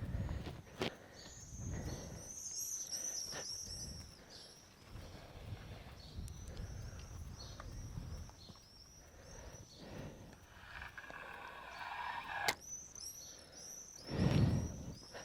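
Small birds chirping in quick twittering runs, strongest in two spells, with a few sharp clicks and low muffled thumps of handling or wind on the microphone.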